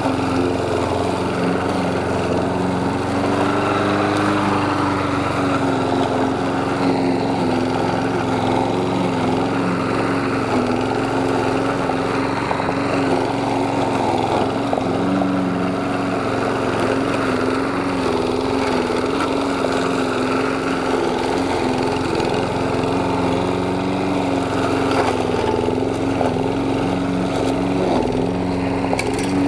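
Lawn mower running steadily while mowing grass, its motor pitch dipping slightly now and then.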